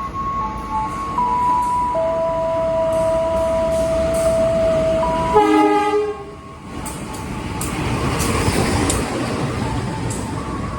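A passing train: the locomotive's horn sounds one short blast about five seconds in, then the train rumbles by with regular wheel clacks over the rail joints. Steady electronic tones, changing pitch in steps, sound beneath it in the first half.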